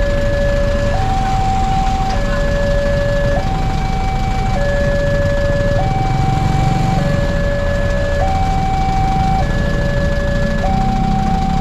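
Railway level-crossing warning alarm sounding, two electronic tones alternating low and high, each held a little over a second, over a steady low rumble.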